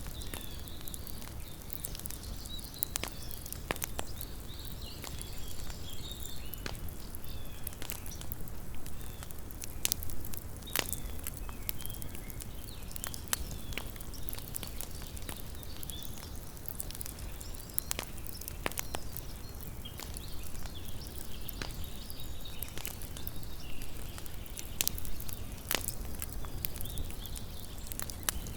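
Small wood campfire burning, with irregular sharp crackles and pops over a steady low rumble and hiss of the flames.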